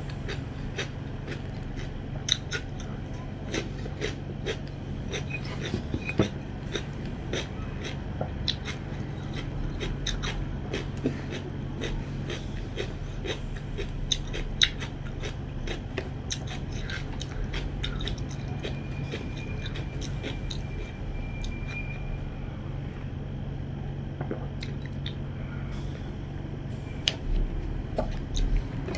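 A person chewing and eating a meal of soybean curry and rice, with many small irregular clicks of mouth and food, over a steady low hum.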